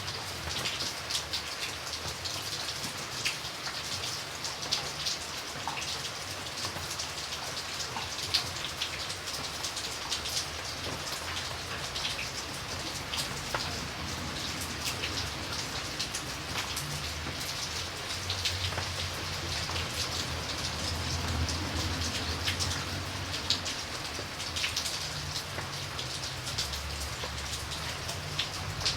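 Steady rain falling, a continuous hiss dotted with many individual drops striking a surface, over a faint low rumble.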